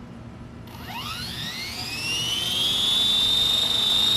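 Electric motor of a 450-size RC helicopter spooling up: a whine that starts under a second in, rises steeply in pitch over about two seconds, then levels off and holds steady at a high pitch, getting louder as it climbs.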